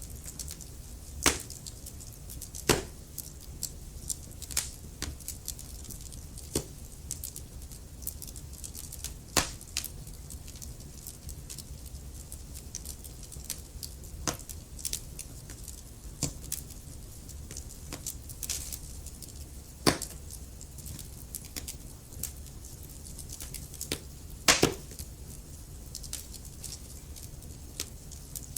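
Wood fire in a fireplace crackling, with irregular sharp pops and snaps over a low steady rumble of the burning logs.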